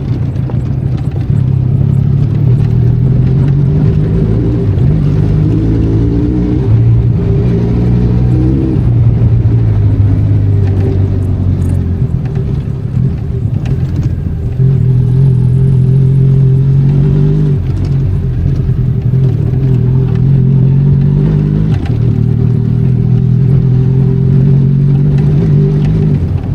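Benelli Leoncino 500 Trail's parallel-twin engine running as the motorcycle is ridden. The engine note rises and falls with the throttle, climbing steadily between about six and nine seconds, then dropping and holding steady for stretches.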